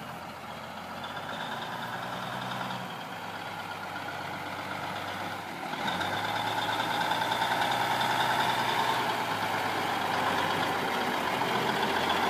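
Diesel engine of an M925A1 military 5-ton 6x6 truck running, getting louder about six seconds in, with a steady high whine riding over it.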